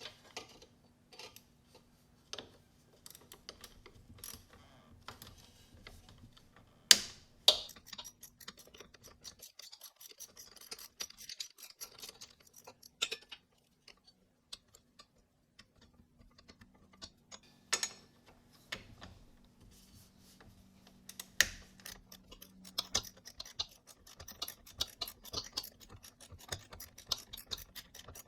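Irregular clicking, tapping and clattering of hand tools and loose parts during fender and plastic removal on a small ATV, with a few louder knocks, over a faint steady hum.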